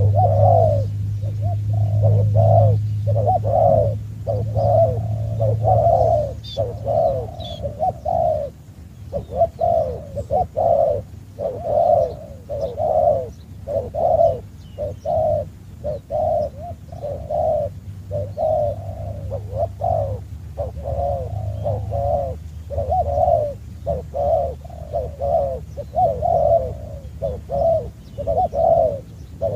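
A dove cooing over and over in quick, short phrases, about one or two a second. A low hum lies under the first few seconds and fades out.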